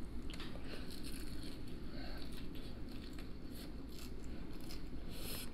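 Close-up chewing of battered fried fish dipped in tartar sauce: soft wet mouth sounds with scattered crisp crunches of the batter, the sharpest one near the end.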